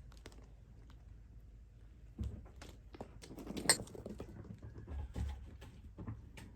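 Kittens playing and tumbling on the floor: scattered light scuffles and clicks, with a few soft low thumps about two seconds in and twice near five seconds, and a sharper click in between.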